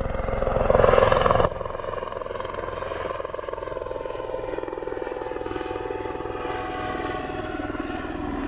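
Helicopter running, a fast rotor chop under a steady multi-tone whine. Loudest for the first second and a half, then it drops suddenly and carries on steadily, its pitch sinking slowly.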